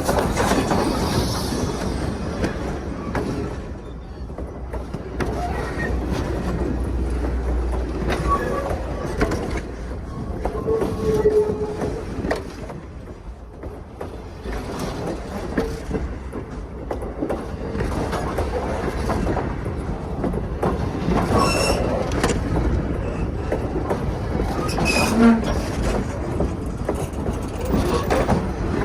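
Passenger train cars rolling past on jointed track: steady wheel and rail noise with clicks and knocks, a low rumble in the first few seconds, and a few brief wheel squeals.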